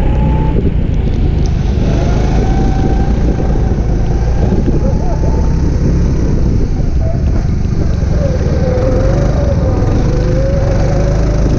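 Go-kart engine running hard, its pitch rising and falling as the kart accelerates and slows through corners, over a heavy low rumble and a steady rushing noise.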